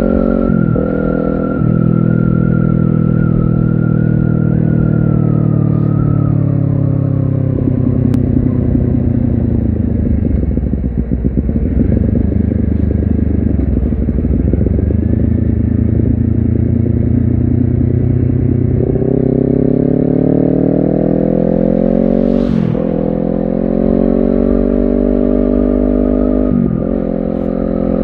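Honda CBR250RR's parallel-twin engine under way: the revs fall away for several seconds, hold steady, then climb again. Twice near the end the climb breaks off briefly and picks up at a lower pitch, as on upshifts.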